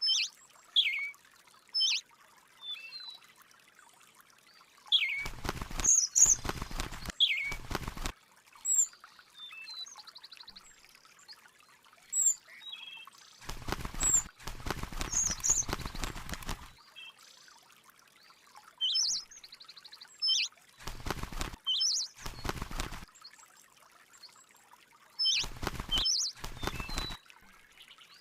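Birds chirping: short, high calls scattered throughout. Four stretches of rushing noise, each a second to three seconds long, cut in between them.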